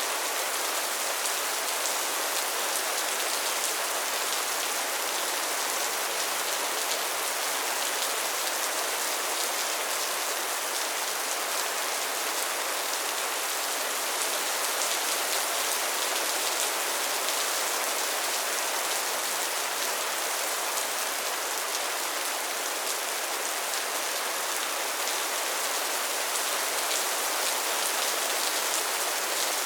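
Steady rain falling on a surface, a continuous even hiss with fine crackling drops.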